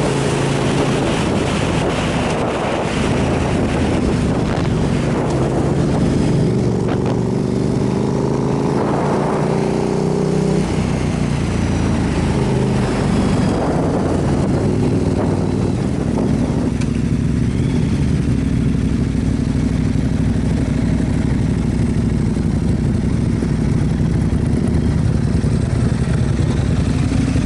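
Motorcycle engine running under way with wind rushing over the microphone; the engine note climbs as it revs up about a third of the way in, then settles to a steady lower note while the wind rush eases.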